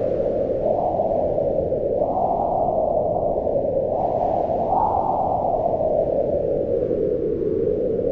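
Mountain wind howling in a storm, a steady hollow moaning that swells up in pitch about two seconds in and again near five seconds, then slowly sinks.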